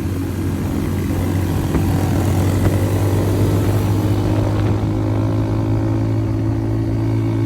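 Vehicle engine running steadily under way, a low even drone that rises slightly about two seconds in.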